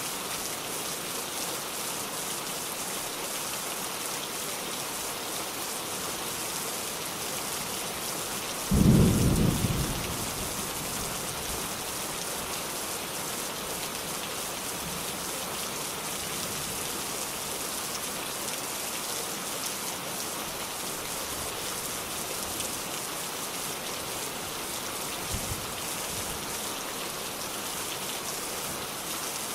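Steady rain hiss, with a sudden clap of thunder about nine seconds in that rumbles for a second or so and then dies away, and a faint low knock near the end.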